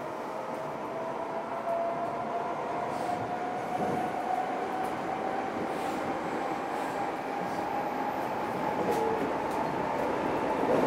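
Eidan 6000 series train with a Mitsubishi 3-level IGBT VVVF inverter, its electric whine rising slowly in pitch as the train gains speed. The whine sits over steady rail rumble with a few clicks.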